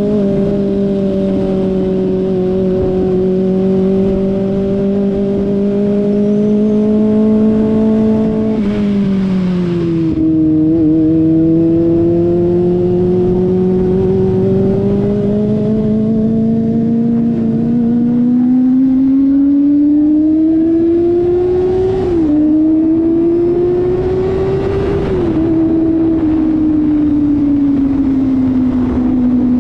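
Kawasaki ZX-25RR's 250 cc inline-four engine under way at steady mid revs. Its pitch drops as the throttle eases about nine seconds in, then builds slowly. A quick dip comes around twenty-two seconds, the pitch climbs once more, then falls back and holds steady near the end.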